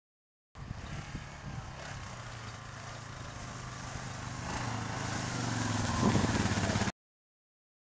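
ATV engine running steadily and growing louder, with a brief louder burst about six seconds in. It starts and stops abruptly.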